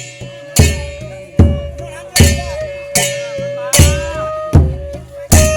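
Isan folk ensemble music: a drum and crash cymbals strike together in a steady beat, about one stroke every 0.8 seconds, under a long held horn tone that bends slightly in pitch.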